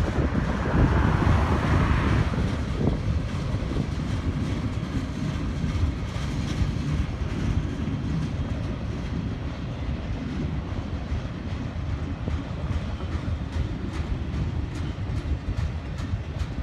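Double-stack container train's well cars rolling past, a steady low rumble of steel wheels on rail. Repeated clicks of wheels over rail joints grow more frequent near the end.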